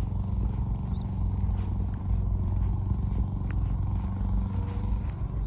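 A steady low motor hum, like an engine running, with a few faint clicks and scrapes over it.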